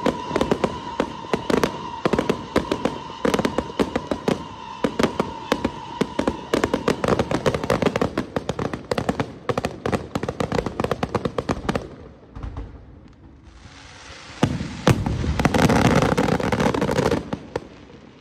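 Aerial fireworks going off: rapid sharp bangs of shells bursting one after another for about twelve seconds, with a steady whistling tone under the first half. After a short lull comes a dense burst of crackling near the end, which then fades.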